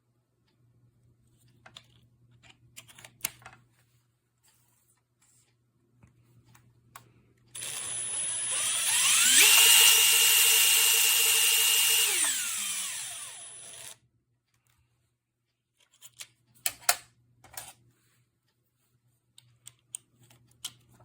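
HiKOKI WH36DD 36V cordless impact driver's motor spinning up with a rising whine, running steadily for a few seconds, then winding down and stopping. Light handling clicks come before and after it.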